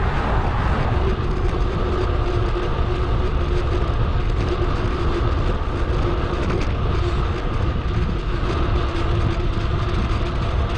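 Steady wind rumble on the microphone of a bicycle-mounted action camera, mixed with tyre and road noise from the moving bike and a faint steady hum.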